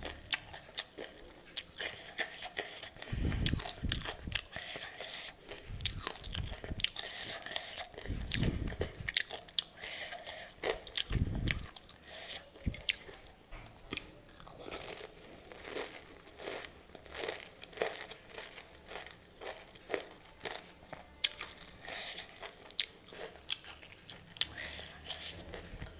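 Close-up biting, crunching and chewing of crisp pani puri shells: a dense run of sharp crackles, with a few dull low thumps in the first half.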